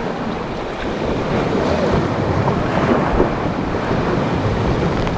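Steady wind noise buffeting the microphone, over the wash of sea water.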